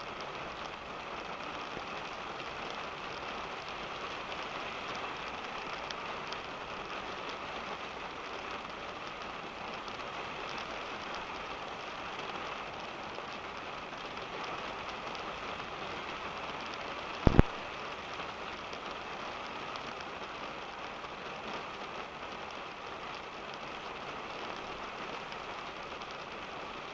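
Steady rain on a car, heard from inside the cabin. About seventeen seconds in, a sharp double knock stands out as the loudest sound.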